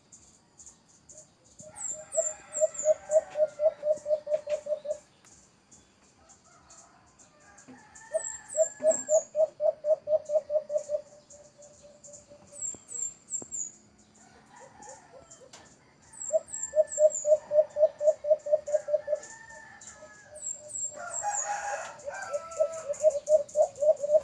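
Doves cooing in fast staccato runs of repeated notes, about five runs a few seconds apart, with thin high chirps over them.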